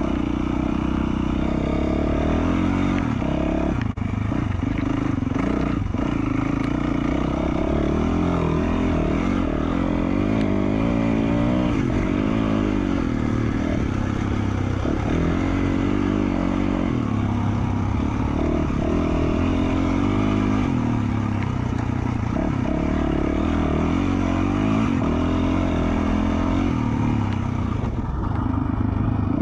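2020 Yamaha YZ450F single-cylinder four-stroke dirt bike engine, fitted with an FMF Q4 slip-on muffler, running under way on a trail. Its pitch rises and falls again and again as the throttle is worked, with a brief drop about four seconds in.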